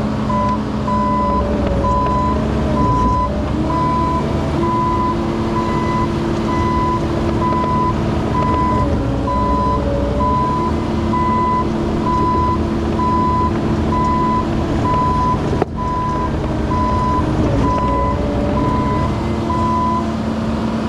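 Excavator's diesel engine running steadily under load while its travel alarm beeps in an even, repeating tone, a little more than once a second, the sign that the machine is tracking. A second pitched note comes and goes over the engine drone, and there is one sharp knock about 16 seconds in. The beeping stops shortly before the end.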